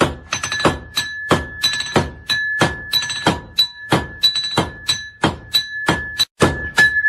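Hammers striking iron on an anvil in hand forging, an uneven run of about three blows a second, many leaving a high ringing tone from the anvil. The blows break off briefly about six seconds in, then resume.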